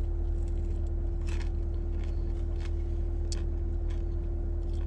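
Steady low hum with a constant tone above it, with a few faint, crisp crunches scattered through it, like bites or chewing of a fried corn dog.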